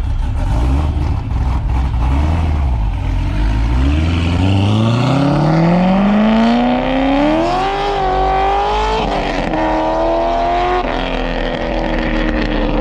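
Car engine accelerating: its pitch climbs steadily for several seconds, drops at a gear change about nine seconds in and again near eleven seconds, then falls away slowly.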